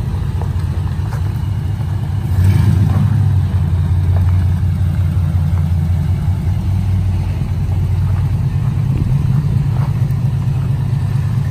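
Low, steady engine and road rumble of a vehicle being driven, heard from inside the cabin; it grows louder about two and a half seconds in.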